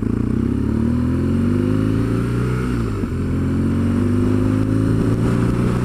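BMW R1200GS boxer-twin engine pulling under acceleration, rising in pitch, dropping once about three seconds in as it changes up a gear, then rising again.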